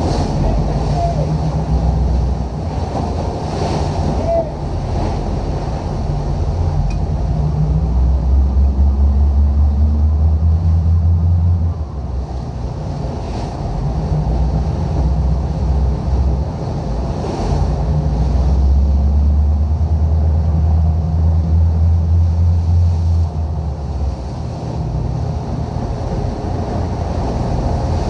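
Wind and sea waves at sea, with a deep rumble that swells up and dies back twice.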